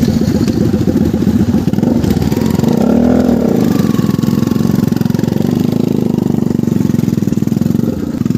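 Motorcycle engine running while being ridden, its pitch rising and then falling about three seconds in.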